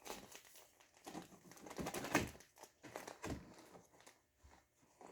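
Irregular, sticky clicks and crackles of cloud slime being kneaded and stretched by hand, with a few louder squelches.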